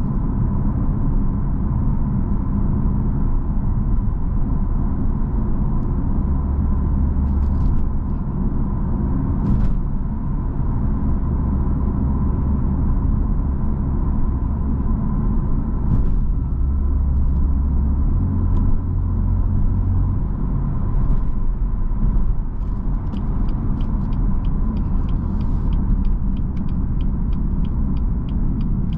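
A 2018 BMW M4 Competition convertible on the move: the low, steady rumble of its 3.0-litre twin-turbo inline-six under light load, mixed with tyre and road noise. A run of quick, even ticks comes near the end.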